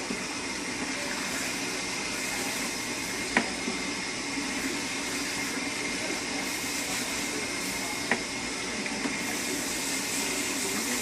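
Salon shampoo-bowl sprayer running, a steady hiss of water rinsing shampoo out of hair, with two sharp clicks.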